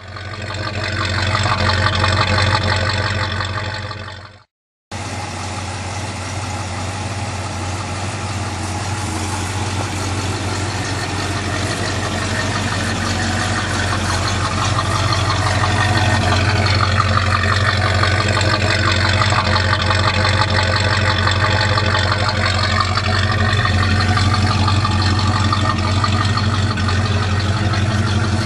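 Rebuilt 327 small-block V8 of a 1966 Chevrolet half-ton pickup idling steadily, with a brief dropout about four and a half seconds in.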